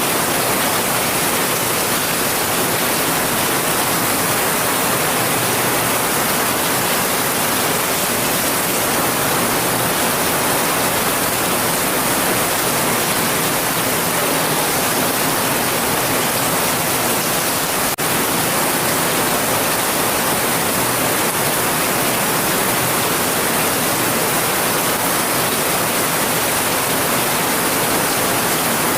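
Heavy rain falling steadily, a dense, even hiss with no breaks, interrupted only by one brief click about two-thirds of the way through.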